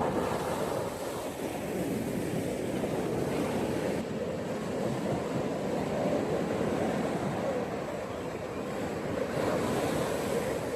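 Ocean surf washing onto a beach in a continuous wash, with slow swells in loudness as waves break and run up.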